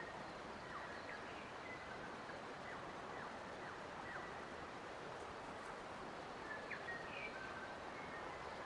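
Forest birds calling: a scatter of short, quick downward-sweeping chirps and brief thin whistles, a few more bunched near the end, over a steady rushing background hiss.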